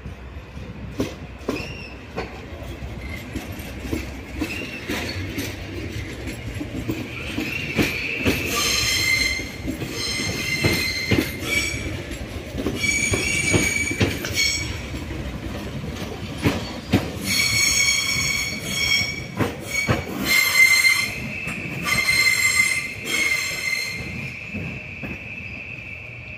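Railway wheels squealing on the rails as a train rolls through. There are sharp clacks of the wheels over rail joints, and from about eight seconds in a shrill, high-pitched squeal comes and goes again and again.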